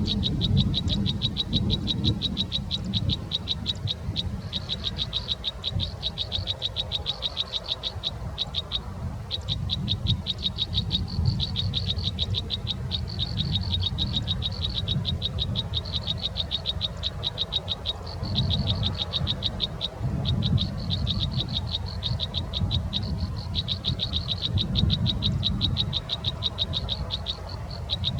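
An animal's high, fast pulsed trill, repeated in runs of a few seconds with short breaks, over a low rumble.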